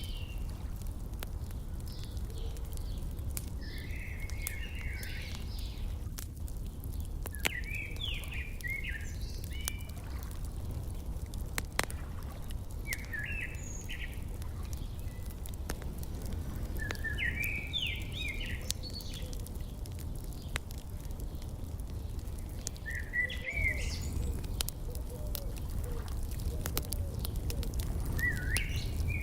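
A songbird singing short, quick phrases of chirping notes, one phrase about every four to five seconds, over a steady low rumble of outdoor ambience with scattered crackling pops from a wood fire.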